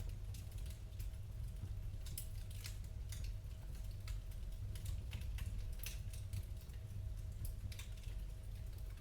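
Wood fire crackling: irregular sharp pops and snaps, several a second at times, over a steady low rumble.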